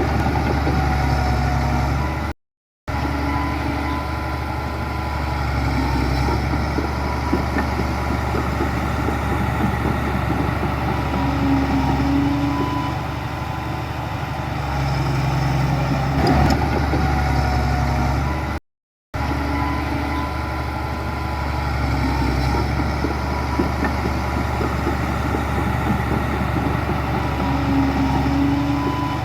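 Diesel engines of heavy earthmoving machinery running steadily, cut by two brief drops to silence.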